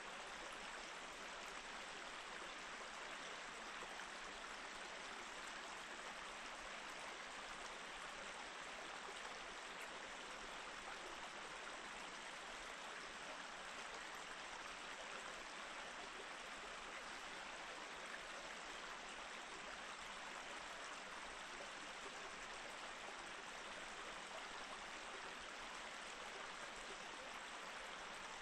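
Mountain stream flowing steadily over rocks between snow and ice, an even rushing of water without change.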